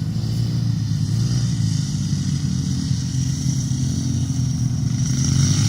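Several pit bike engines running hard in a race, their pitch rising and falling as the riders rev up and back off. The sound grows a little louder near the end.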